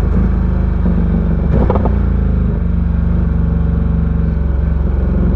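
Ducati Diavel 1260's V-twin engine running steadily at low revs.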